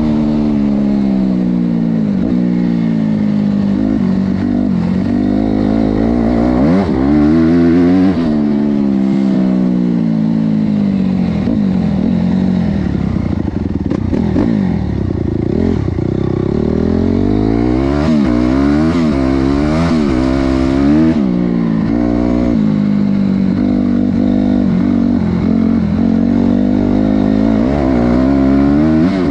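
Honda CRF250R's single-cylinder four-stroke engine revving up and down over and over, its pitch rising and falling repeatedly, with a lower stretch about halfway through before it climbs again.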